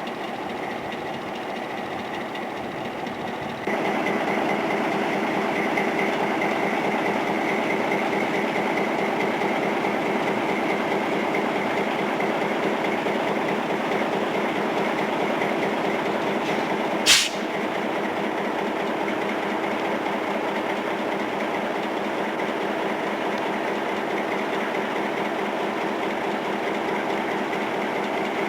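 Diesel locomotive running steadily, growing louder about four seconds in. A sharp click comes about seventeen seconds in, after which it is a little quieter.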